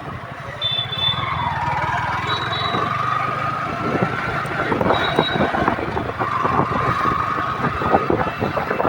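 Motorcycle engine running on the move, with wind buffeting the microphone and traffic around. A high drawn-out tone rises slightly about a second in and is heard again later.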